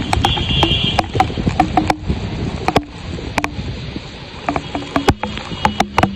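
Floodwater surging through a street, a dense low rush with frequent irregular sharp knocks and clatter.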